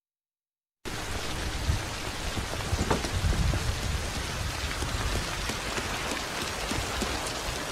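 Heavy rain pouring steadily. It cuts in suddenly about a second in, with a low rumble around three seconds in.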